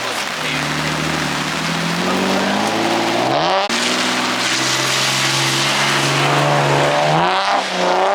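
A car engine revving hard during a drift run: the pitch climbs for about three and a half seconds, drops suddenly, then holds high before wavering up and down near the end. Underneath runs a steady hiss of tyres on wet pavement.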